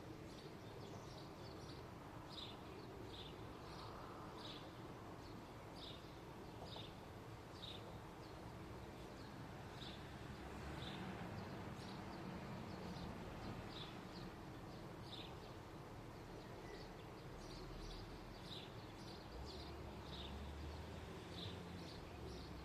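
Small birds chirping: short high chirps repeating irregularly, about one or two a second, over a faint low rumble of background noise.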